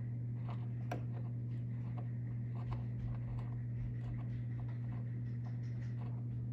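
Light, irregular metal clicks and taps of a hand wrench working a hard-to-reach bolt on the chain case housing, over a steady low hum.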